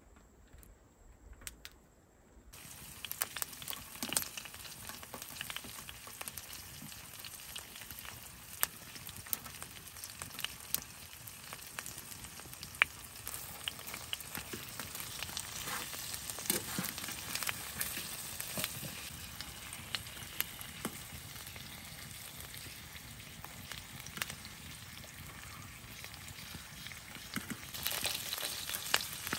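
Food frying in a hot pan: a sizzle starts suddenly about two seconds in and goes on steadily with scattered sharp pops.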